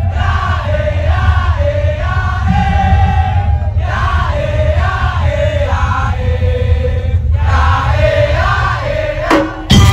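Madurese daul (tongtong) music: a wavering melody line over a heavy, constant low bass and drum. It drops away briefly just before the end, when sharp percussion strikes come in.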